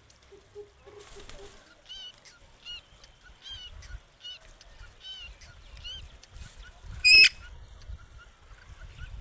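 Green parrot calling: a run of short chirping notes about once every three-quarters of a second, then one loud, harsh squawk about seven seconds in.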